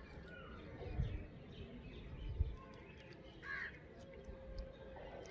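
Birds calling in the background, with short chirps and one louder, harsher call about three and a half seconds in. Two low thumps, about a second in and again about two and a half seconds in.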